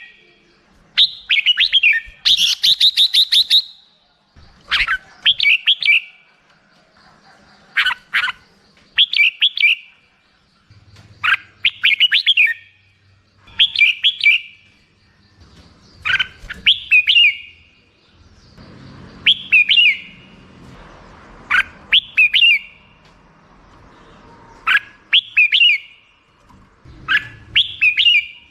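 Red-whiskered bulbul singing: short, bright warbling phrases repeated every couple of seconds, a dozen or so in a row.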